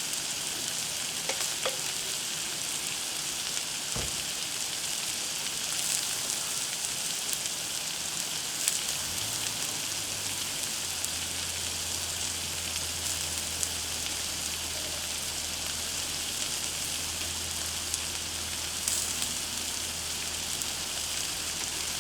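Food sizzling steadily on a Blackstone flat-top griddle, with scattered small crackles. A low steady hum comes in about ten seconds in.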